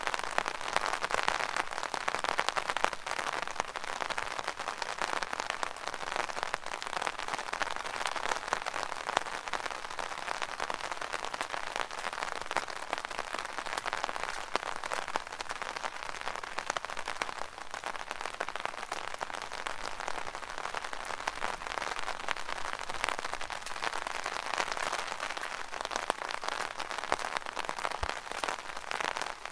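Rain falling on an umbrella: a dense, steady patter of many small drop hits on the canopy.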